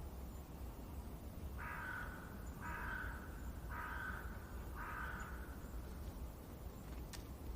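A bird calling four times, about a second apart, each call about half a second long, over a steady low background rumble. A brief click comes near the end.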